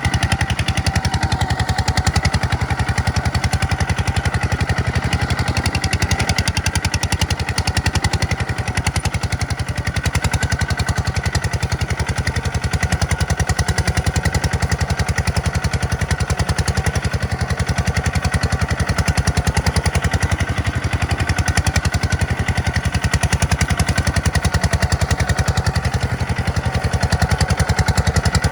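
Tractor engine running steadily with a rapid, even pulsing beat.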